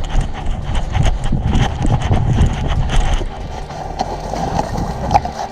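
Footsteps and rustling through dry undergrowth, with twigs and leaves crackling and a few sharp clicks near the end.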